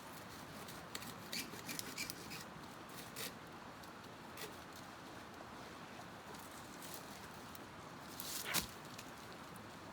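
Scattered small clicks and rustles over a steady hiss, with a louder rustle about eight and a half seconds in.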